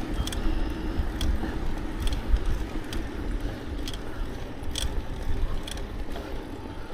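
Riding a bicycle: a steady low rumble of wind and road noise on the microphone, with a light, sharp click repeating about once a second.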